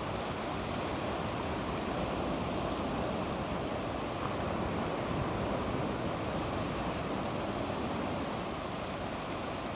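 Sea waves washing steadily onto the shore, an even rushing surf with no distinct breaks, easing slightly near the end.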